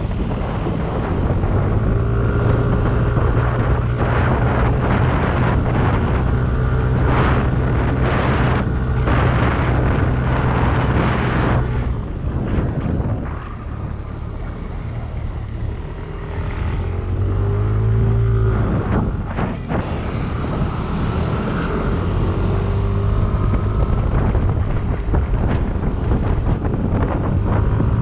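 Yamaha Aerox 155 scooter's single-cylinder four-stroke engine running while being ridden, with wind buffeting the microphone. The engine eases off a little under halfway through, then picks up again.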